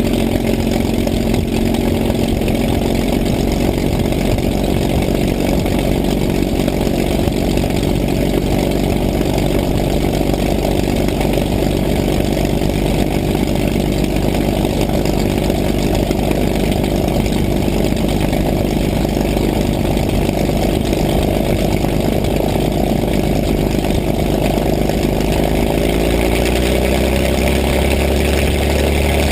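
P-51 Mustang's V-12 piston engine running steadily at low power, its pitch rising near the end as it is throttled up.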